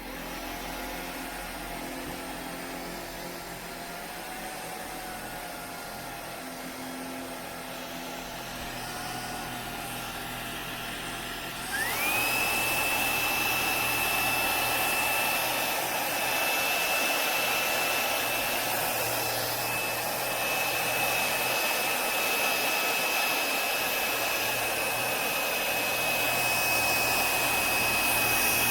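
Tineco Pure ONE S15 cordless stick vacuum running with a steady motor whine. About twelve seconds in, the motor rises sharply in pitch and gets louder as it steps up to a higher suction power, and holds there.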